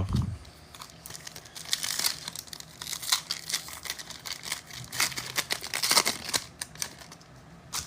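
Trading-card pack wrappers and cards being handled: irregular crinkling and rustling with scattered small crackles and scrapes.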